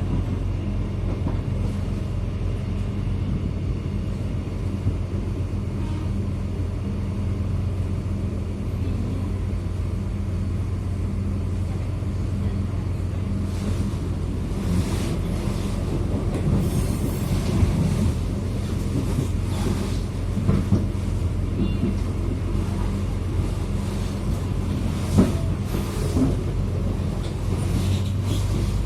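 YIA airport train running along the line: a steady low hum and rumble with occasional knocks and clatter from the wheels on the track.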